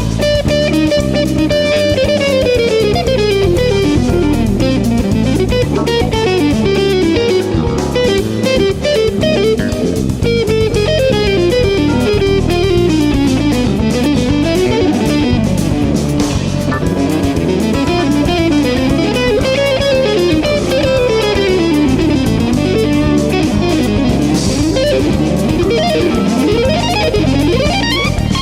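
Jazz fusion electric guitar solo: fast runs of single notes climbing and falling, over a bass line and drums.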